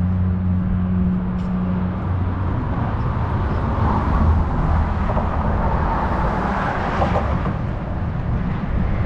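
Car on the road: steady engine hum and tyre noise that swells for a few seconds in the middle.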